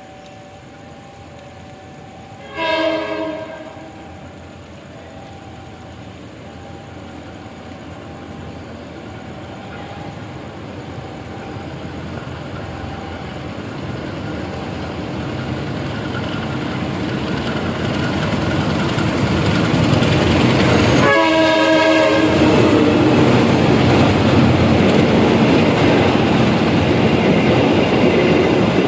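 Diesel locomotive sounding its horn briefly about two and a half seconds in, then approaching and growing steadily louder, sounding its horn again about 21 s in. The train then rumbles past close by with the clickety-clack of wheels on rail joints.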